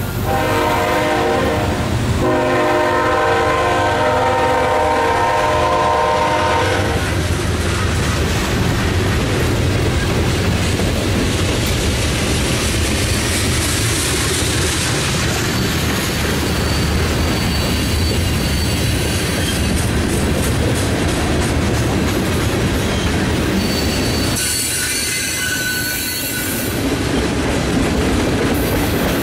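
A diesel locomotive's air horn sounds a chord for the first several seconds, with a short break about two seconds in, over the noise of freight cars rolling past. Once the horn stops, the passing cars make a steady rumble and clickety-clack, with a faint high wheel squeal near the end.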